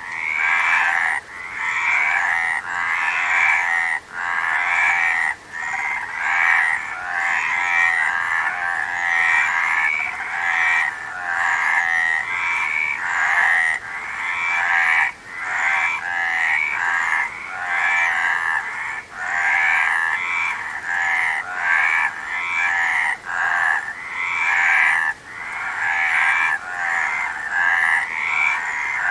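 A chorus of many frogs croaking, their calls overlapping without a break, each call swelling and fading every second or so.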